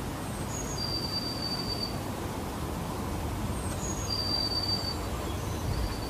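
Steady low rumble of background noise, with two long, thin, high bird whistles, about a second in and about four seconds in, and a few faint short chirps.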